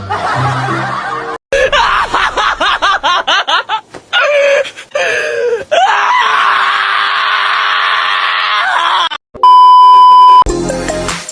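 Loud wavering screaming cries that slide up and down in pitch, followed about nine seconds in by a loud steady beep lasting about a second; music with a beat starts near the end.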